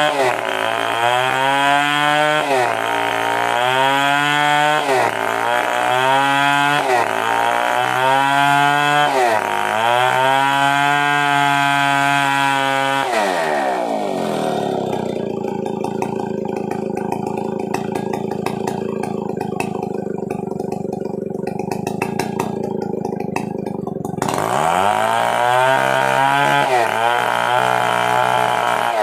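Stihl 070 two-stroke chainsaw running at high revs, its pitch sagging and recovering every two to two and a half seconds as it is loaded in the cut. About 13 seconds in it drops to a lower, steadier pitch for about ten seconds, then revs back up near the end.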